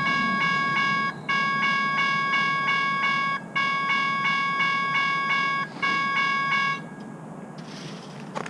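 Loud steady multi-pitched warning tone sounded in long blasts with short breaks about every two seconds, stopping about seven seconds in.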